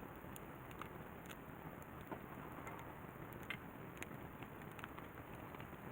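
Wood campfire crackling, with irregular sharp pops and ticks over a steady low rushing hiss.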